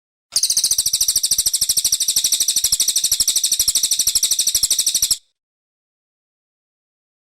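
Brown cililin bird singing a rapid, even, high-pitched trill for about five seconds that cuts off abruptly.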